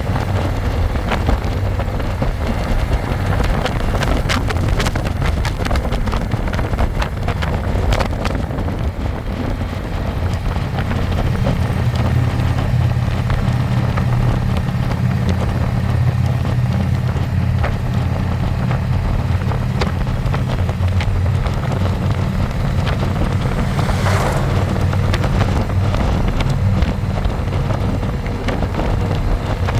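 Harley-Davidson Electra Glide's V-twin engine running at a steady cruise, heard from the passenger seat, with wind rushing over the microphone.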